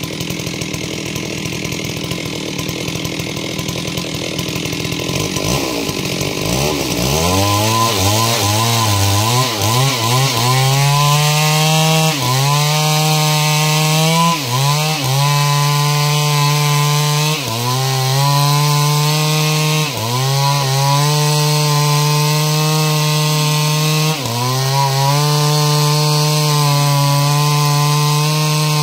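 Stihl two-stroke chainsaw cutting lengthwise through timber to make planks. Its pitch wobbles and climbs several seconds in, then holds at high revs with short dips every two to three seconds as the chain loads in the cut.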